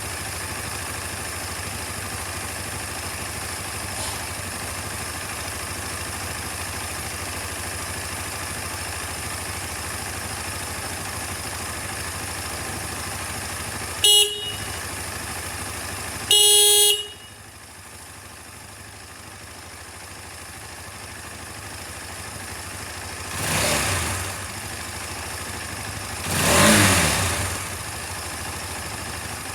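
KTM 250 Adventure's single-cylinder engine idling steadily. Its horn sounds twice, a short toot and then a longer blast, and the idle settles quieter. Then the throttle is blipped twice, the revs rising and falling back each time.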